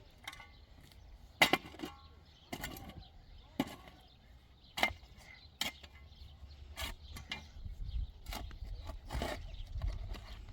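A series of irregular sharp knocks and clacks, roughly one every second.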